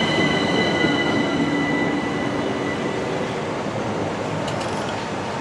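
Class 375 Electrostar electric multiple unit running along the platform. Its high whine fades and drops a little in pitch over the first couple of seconds, and the running noise slowly dies away as the train slows to a stop.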